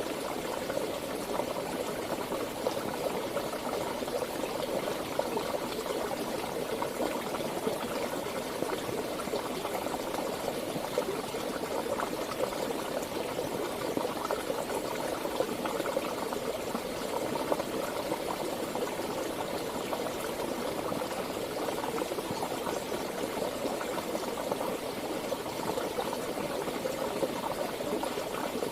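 Running water of a stream, a steady babbling flow with no change throughout.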